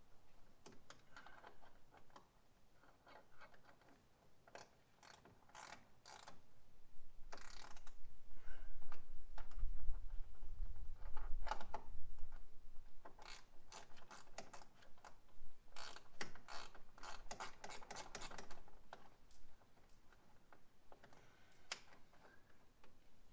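Socket ratchet clicking in short runs as a 10 mm bolt is worked loose, with scattered clicks and knocks of tools on metal. A louder low rumble comes about a third of the way in.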